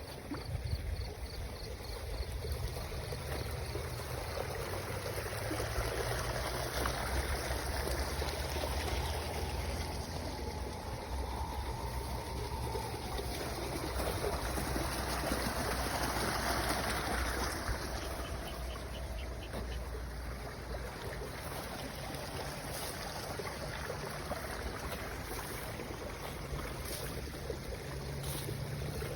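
Water flowing in a steady wash, with a low steady rumble beneath it.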